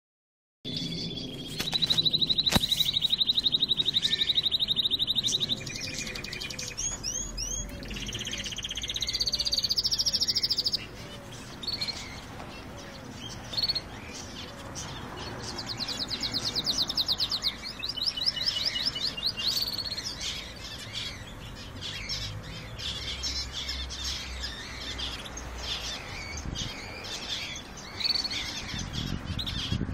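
Canaries singing: long, rapid rolling trills around 4 kHz, loudest in the first ten seconds and again in the middle, with shorter chirps and notes in between.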